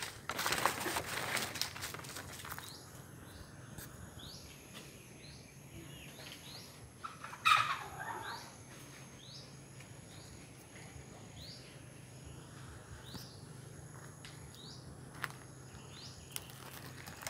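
A bird calling over and over with short, high, falling notes, about one a second, over a steady thin high whine in the background. Rustling footsteps on dry ground in the first couple of seconds, and one brief louder rustle about seven seconds in.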